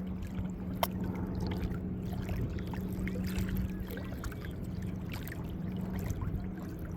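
Sound of a small fishing boat on the water: a steady low hum over a low rumble, with one sharp click about a second in.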